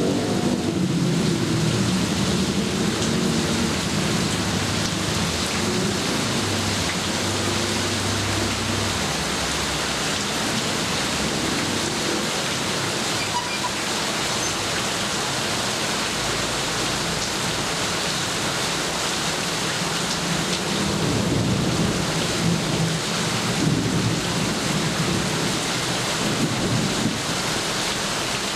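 Steady heavy rain falling, with low rolling thunder rumbling during the first several seconds and again about two-thirds of the way in.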